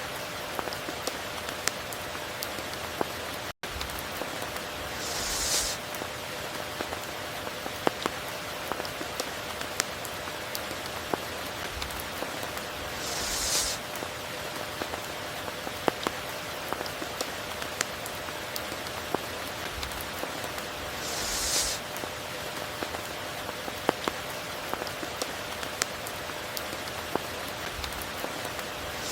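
Steady rain pattering on surfaces, with many distinct drop hits. A brief high hiss swells about every eight seconds, and the sound cuts out for an instant once, a few seconds in.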